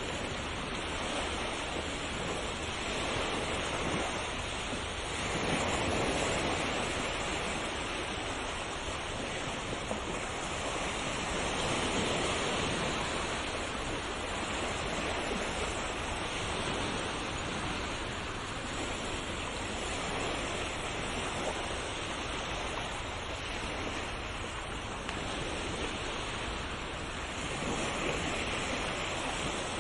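Ocean surf: waves breaking and washing on a shore in a steady hiss, swelling louder every several seconds.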